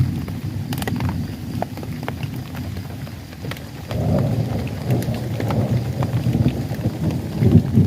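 Rain falling with a steady low rumble, and scattered raindrops ticking close by. The rumble swells about halfway through.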